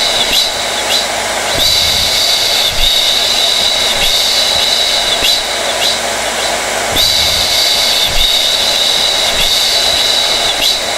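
Hair dryer running steadily: a rushing airflow with a high-pitched whine. The whine drops away briefly twice and comes back.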